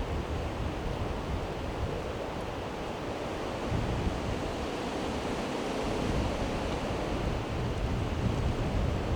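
Strong wind gusting and buffeting the microphone in a steady rushing roar with low rumbles, growing louder in the second half.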